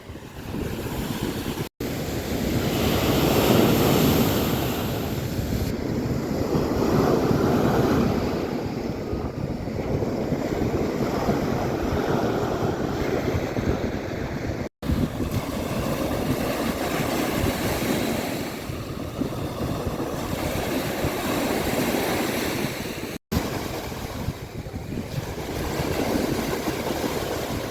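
Sea surf washing onto a beach, its noise swelling and easing every few seconds, with wind on the microphone. Three very brief dropouts break the sound.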